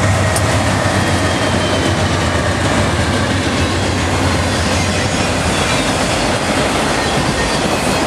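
Freight train passing close by. The low diesel engine drone of the lead BNSF GE C44-9W locomotives fades over the first five seconds or so. It gives way to the steady rumble and clickety-clack of the autorack cars' wheels on the rails.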